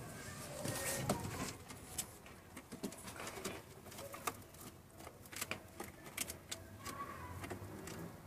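Domestic pigeons cooing, with scattered short sharp clicks and taps.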